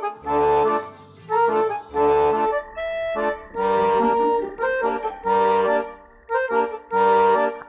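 Background music led by an accordion, playing chords in short, repeated phrases.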